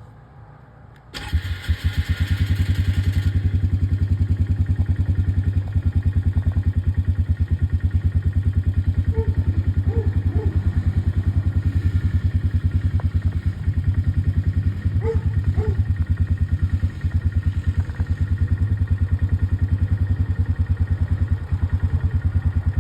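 ATV engine starting about a second in, then running at a steady, even idle with a fast regular pulse.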